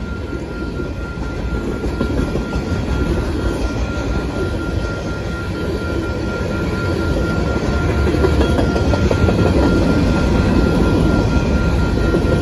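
Freight cars of a Union Pacific train rolling past close by: a steady rumble and clatter of steel wheels on the rails, growing louder over the second half. A thin, steady high tone sits over it.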